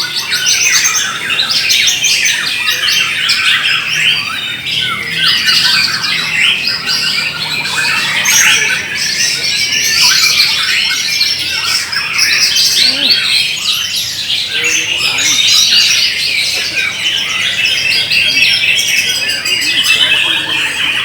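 Several white-rumped shamas singing at once: a dense, unbroken tangle of rapid whistled phrases and trills.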